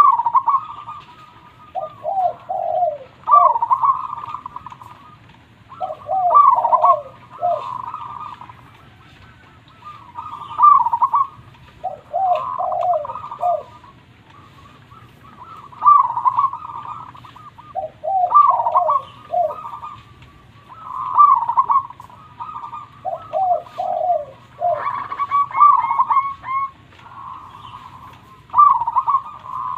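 Zebra dove (perkutut) singing its cooing song: a phrase of rolling coos repeated every two to three seconds, over a faint steady low hum.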